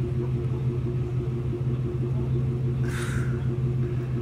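Vehicle engine idling steadily close by, a constant low hum. A short hissing burst about three seconds in.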